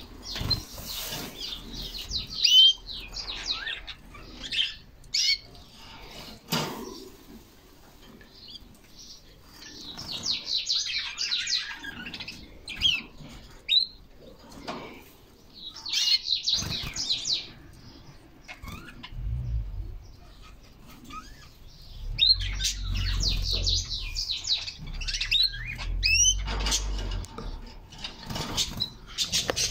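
Canaries singing: phrases of rapid high trills and slurred whistled notes that come in bursts with short pauses between them. A low rumble runs underneath during the second half.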